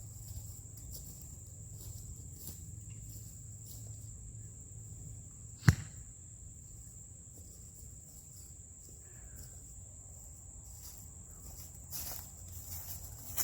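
A single sharp snap of a bow being shot, the string releasing an arrow, about six seconds in. A steady high-pitched insect buzz runs underneath.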